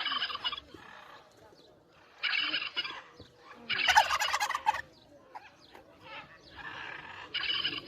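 Turkey gobbling, five rattling gobbles about every second and a half, the one about four seconds in the loudest.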